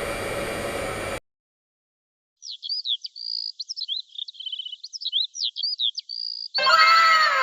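A hair dryer's steady blowing noise that cuts off about a second in. After a brief silence comes a thin, high bird-chirp sound effect with quick rising and falling tweets. Near the end a louder burst of several falling whistle-like tones joins in.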